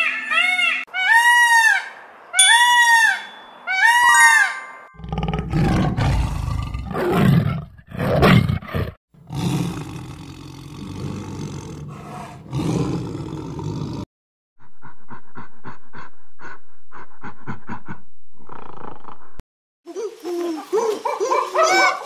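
A sequence of animal calls. First a peacock gives its loud, repeated wailing calls, about one a second. Then a tiger roars and growls, deep and rough. Near the end come chimpanzee calls that rise and fall in pitch, after a stretch of rapid, even pulsing sounds.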